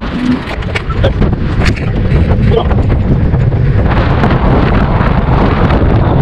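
Wind buffeting the microphone, a loud, steady rumbling rush, with a few light clicks in the first two seconds.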